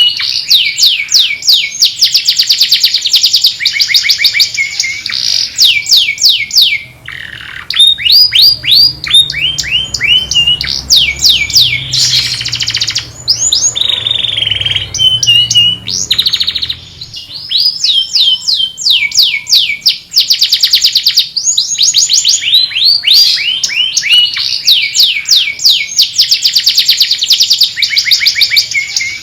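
Domestic canary singing a long song of fast trills: rapid runs of repeated falling notes, broken by a few short pauses and changes of phrase.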